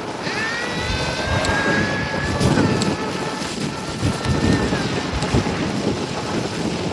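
E-bike's electric motor whining under throttle: the pitch climbs as it spins up, holds steady, then fades after about four seconds, over wind noise on the microphone and the rumble of the tyres.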